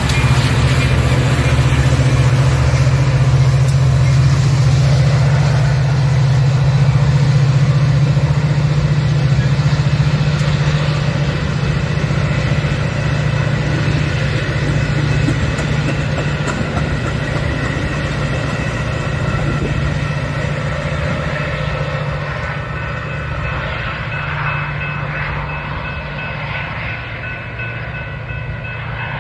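Metra F40PH-3 diesel locomotive and its bilevel coaches rolling past and pulling away, the engine's steady low drone loud at first and fading in the last few seconds as the train recedes.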